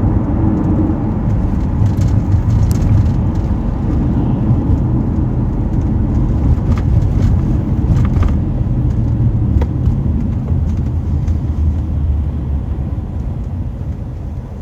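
Road and engine rumble heard from inside a moving vehicle's cabin, steady and low, with a few faint ticks and easing off near the end.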